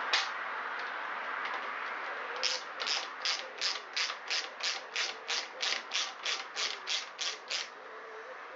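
Hand socket ratchet clicking in about fifteen short, even back-strokes, roughly three a second, as a loosened 10 mm bolt is wound out. A single knock sounds just before.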